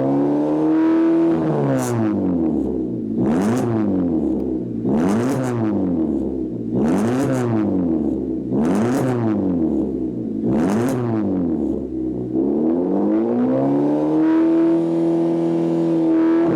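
Suzuki Solio engine revving through a one-off straight-piped exhaust with dual tailpipes, giving a deep, loud exhaust note. It is blipped about six times in a row, each rev rising and dropping back. Near the end comes a longer rev, held high.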